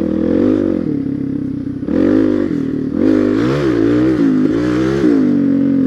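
Suzuki DR-Z400SM's single-cylinder four-stroke engine revving under throttle while riding, its pitch rising and falling several times as the throttle is opened and eased off.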